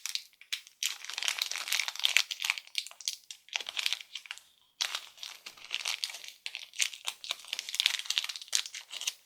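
Shopkins blind bag wrapper crinkling as it is handled and opened. It comes in two long stretches, with a short pause a little before halfway.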